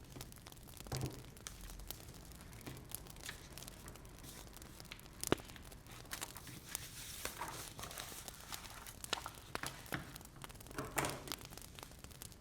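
Wood fire crackling: irregular sharp pops and snaps over a soft hiss, the loudest pop about five seconds in.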